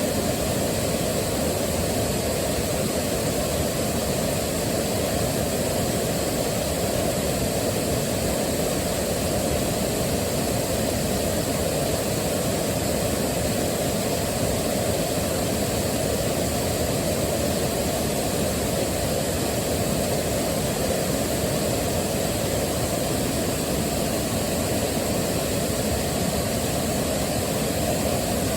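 Waterfall rushing: a steady, deep roar of falling water, strongest in the low range, with no change or breaks.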